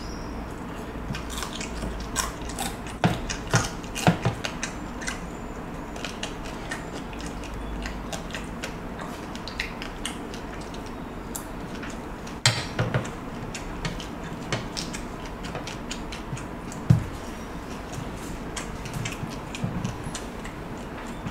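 Close-up eating sounds: a person chewing crispy fried galunggong fish and fried red rice, a run of irregular crackling, clicking crunches with a few louder clicks.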